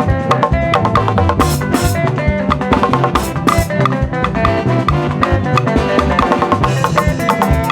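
Live band music with drum kit and percussion keeping a steady, driving beat under pitched instrument lines, with no singing.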